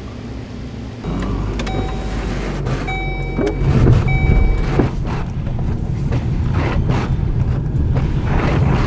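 Car rumbling, with a low rumble that grows louder about a second in. An electronic warning chime beeps three times about a second apart over it, and gusty noise carries on after the beeps.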